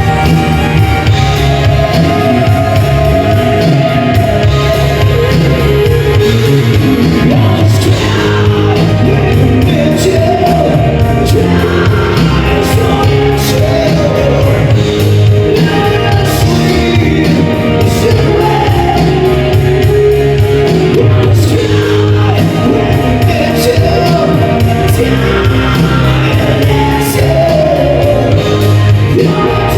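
Live band music played loud through a PA, with a steady beat and a singer's voice.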